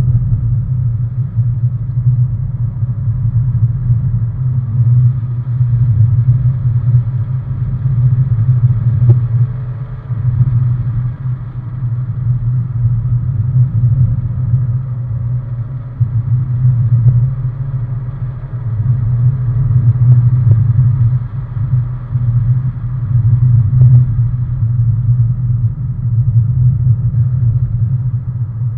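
Car engine and road noise heard from inside the cabin while the car is driven hard around a track, a low drone that swells and eases every few seconds as the throttle goes on and off.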